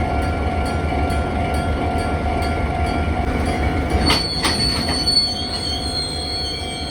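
Freight train on the Nagoya Rinkai Railway running through, with a steady heavy rumble. About four seconds in come a few sharp metallic clanks, then a high, steady wheel squeal sets in and holds.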